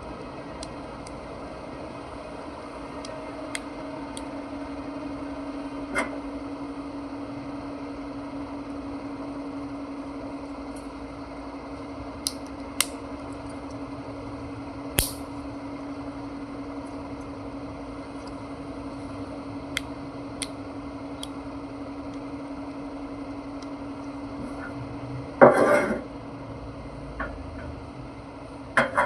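Small parts and tools handled at a workbench: scattered light clicks and taps, and a short loud clatter near the end, over a steady hum that stops shortly before the clatter.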